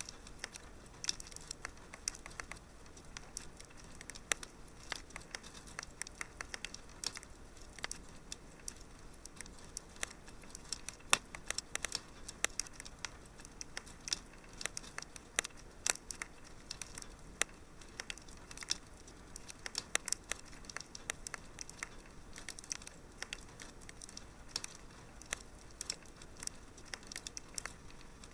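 Fireplace fire crackling: irregular sharp pops and snaps, some louder than others, over a low steady hiss.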